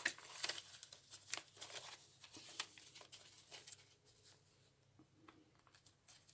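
Faint rustling and crackling of paper and card being handled, with light sharp taps, busiest in the first few seconds and thinning out after that.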